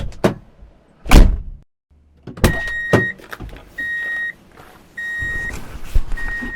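Car doors being shut with sharp thuds, followed by a repeating electronic beep, each beep about half a second long and coming roughly once a second.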